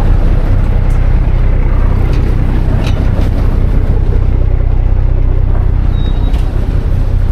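River ferry's engine running with a steady low drone, heard from on board.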